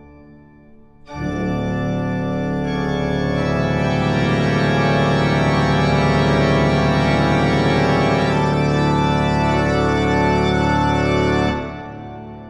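Background music: held organ chords that come in about a second in, build slightly, and die away near the end.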